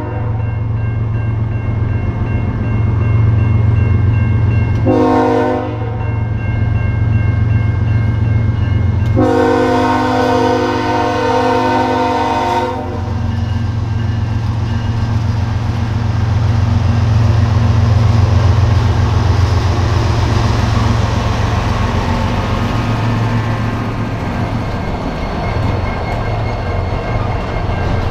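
BNSF diesel locomotives on an empty coal train passing, engines running loudly and sounding the air horn: a blast cuts off at the start, a short blast comes about five seconds in and a longer one of about three and a half seconds begins about nine seconds in. After the horn, the even rolling noise of the cars on the rails rises over the engine sound.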